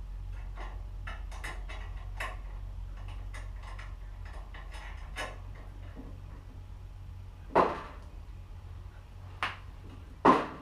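A run of light clicks and taps, then two louder sharp knocks with a smaller one between them, over a low steady hum.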